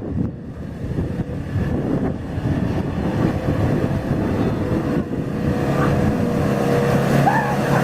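Off-road 4x4 truck engine running under load, with a rough rumble that settles into a steadier, louder note over the second half.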